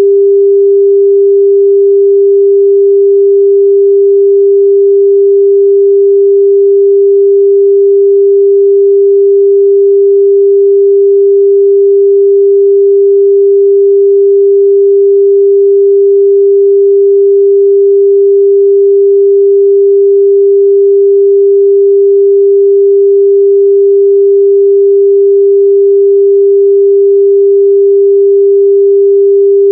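Continuous 398 Hz sine-wave test tone, one pure steady pitch held at constant loudness.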